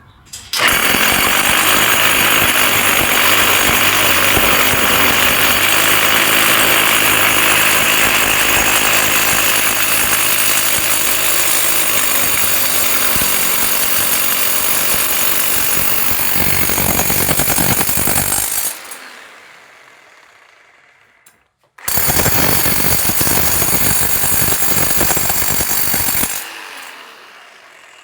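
DeWalt rotary hammer running in two long bursts: the first about eighteen seconds, the second about four and a half seconds after a short pause. Each burst cuts off and winds down over a couple of seconds.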